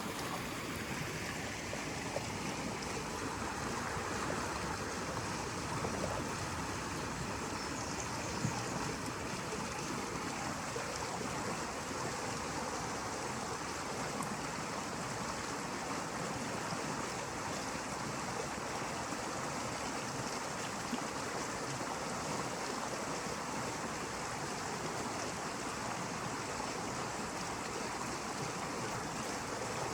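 Steady rushing of running water, like a stream, with no break or change in level.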